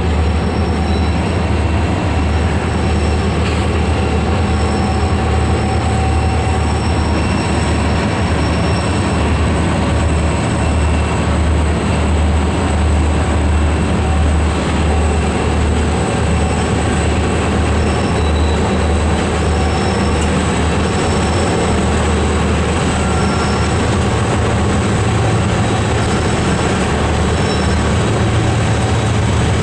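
A loaded coal train led by W&LE GP35-3 and CSX diesel locomotives, working steadily up the grade onto a viaduct: a loud, steady, throbbing diesel rumble over the noise of the rolling cars. Short, thin, high-pitched wheel squeals come and go.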